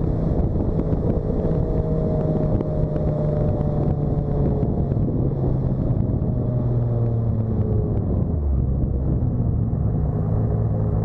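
Turbocharged Toyota 2JZ-GTE inline-six in a Lexus SC300, heard from inside the cabin while cruising at light load off boost, with road and wind noise under it. Its note slowly falls, dips lower about eight and a half seconds in, then picks up again.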